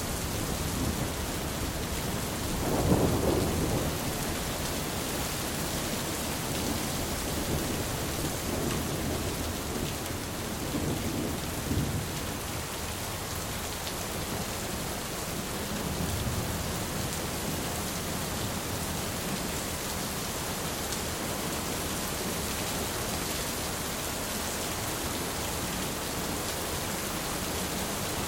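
Steady rain hissing, with rumbles of thunder rolling through it: the loudest about three seconds in, then weaker rumbles around eight to twelve seconds and once more near sixteen seconds.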